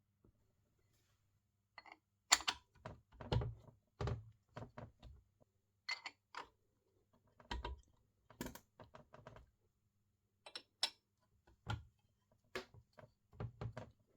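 Irregular clicks and knocks of metal tools and engine parts being handled and set down, some light and some heavier, over a faint steady low hum.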